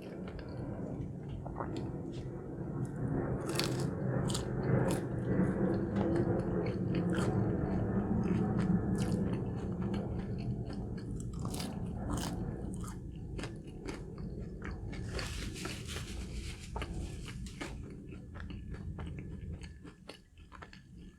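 Close-miked chewing and biting of crispy fried fast food, with repeated crunches and wet mouth sounds.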